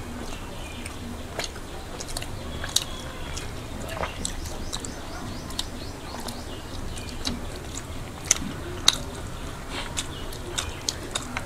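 Two people chewing fried hilsa fish and khichuri eaten by hand: wet mouth and chewing sounds with many scattered sharp little clicks, two louder ones about three-quarters of the way through.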